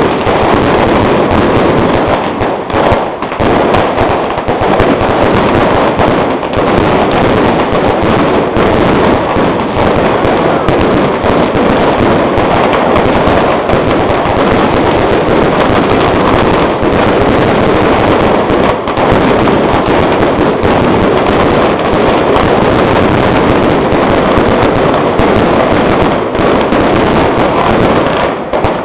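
A fireworks barrage: shells and firecrackers going off so densely that the bangs and crackling run together into one continuous, loud crackle, with no break.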